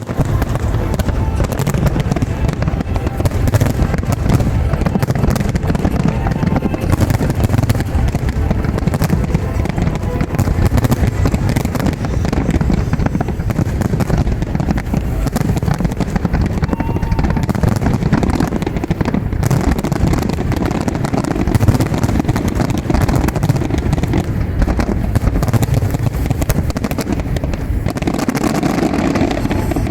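Fireworks display: a continuous barrage of bangs, booms and crackles, over the voices of a crowd.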